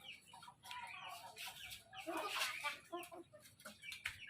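Chickens clucking: a run of short, repeated calls, with a louder noisy rustle about two seconds in.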